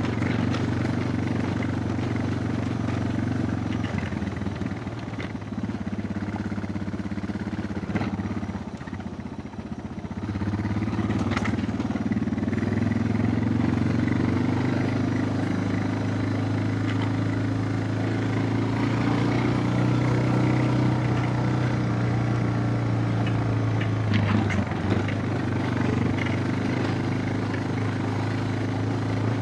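Suzuki DR650's single-cylinder engine running steadily under way, easing off about eight seconds in and picking up again about two seconds later, with a few sharp knocks along the way.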